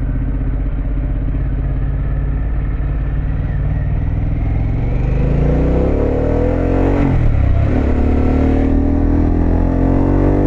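2024 Harley-Davidson Pan America's Revolution Max 1250 V-twin with a Vance & Hines exhaust, running steadily under way. It then accelerates with its pitch rising, dips briefly at a gear change about seven seconds in, and climbs again.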